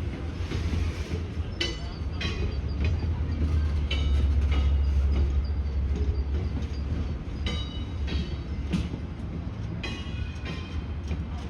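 Train riding along the track behind 4-4-0 steam locomotive No. 7: a steady low rumble, heaviest about midway, with several short sharp sounds from the wheels and rails every second or two.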